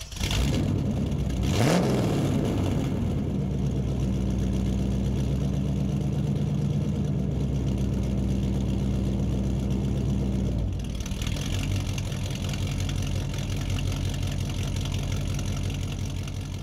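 A car engine starts, revs once about two seconds in, then idles steadily. Its tone changes about eleven seconds in, and it fades out near the end.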